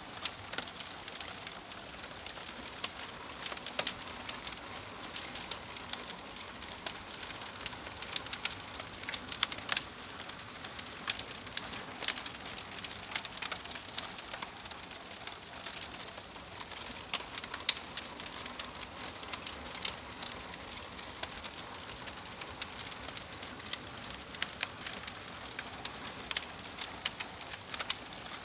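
Fire crackling: a steady soft hiss with irregular sharp pops and snaps.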